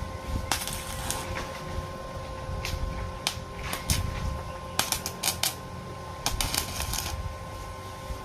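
Arc welding on steel: short, irregular bursts of crackle as the arc is struck and held briefly, some coming in quick clusters around the middle and near the end, over a steady electrical hum.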